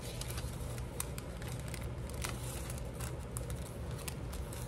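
Paper strips being handled on a craft table: faint rustling with scattered light clicks and taps. A steady low hum runs underneath.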